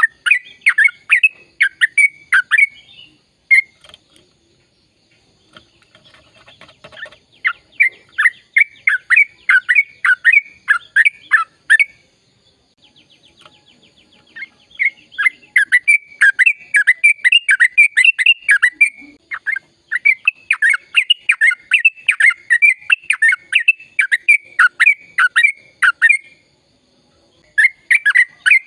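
Sooty-headed bulbul (trucukan) in full song: long runs of quick, loud, down-slurred chattering notes, about three to four a second. The runs come in bouts of several seconds with short pauses between them.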